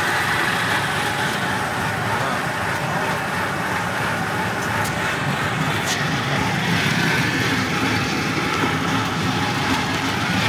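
Amusement-park train running slowly and steadily, its engine and wheel noise heard from an open passenger car.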